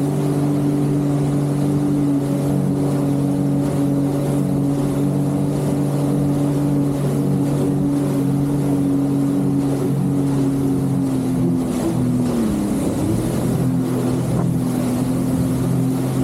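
Jet ski engine running at a steady cruising pitch, with a hiss of water and wind over it. About twelve seconds in the revs drop briefly, then climb back to speed.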